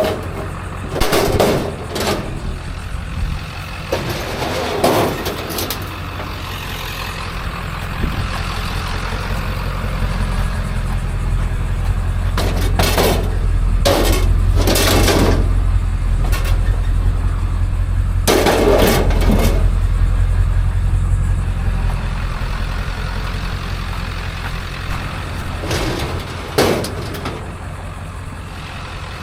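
Motor vehicle running with a steady low drone that swells louder through the middle, broken by several short clattering bursts.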